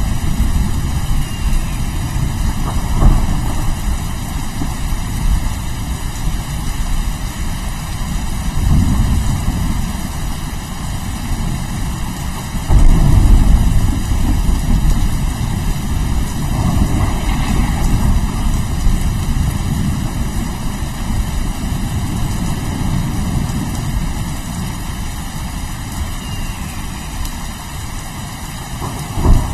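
Steady rain with rolling thunder: a continuous deep rumble that swells several times, loudest about halfway through, and a sharp thunder crack near the end.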